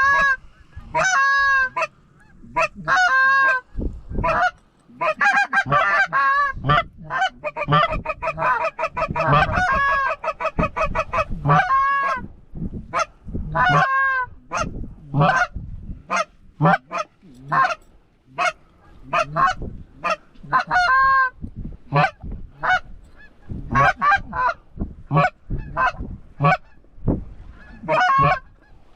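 Geese honking loudly and repeatedly, with quick runs of short clucking honks about a third of the way in, the calling of a goose flock coming in to land.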